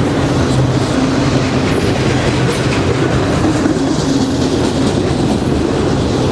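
Norfolk Southern freight train rolling past, its cars' wheels running steadily over the rails with a loud, even rumble and clickety-clack.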